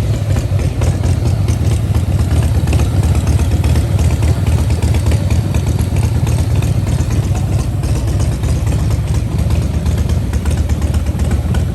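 A vehicle engine idling close by: a loud, steady low rumble with a fast, even pulse.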